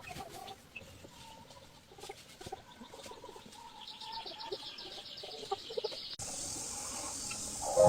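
Faint outdoor ambience with scattered small chirps. From about four seconds in a fast, even high-pitched pulsing comes in. A little after six seconds it cuts abruptly to a steady high buzz, like insects.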